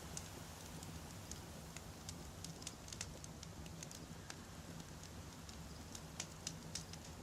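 Wood fire crackling, with frequent irregular sharp pops of burning logs over a low steady rumble.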